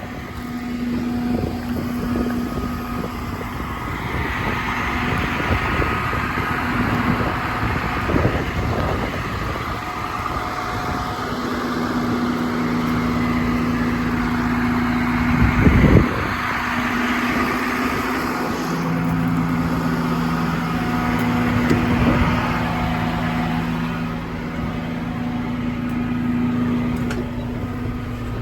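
Kenworth T370's PACCAR PX-8 six-cylinder diesel idling steadily, with a brief thump about halfway through.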